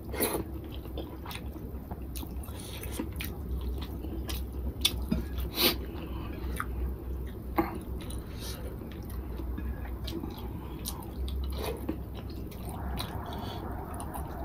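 Close-up mouth sounds of a person chewing a mouthful of rice and fish curry, with scattered wet smacks and clicks. About midway, fingers squish rice and curry together on the plate before the next handful.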